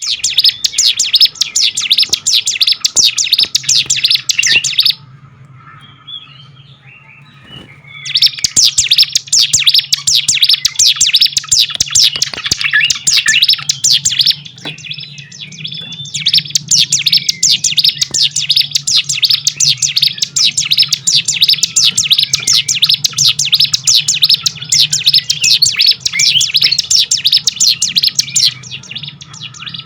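Ciblek gunung song: a fast, continuous run of sharp high chirps, pausing for about three seconds near the start, over a low steady hum.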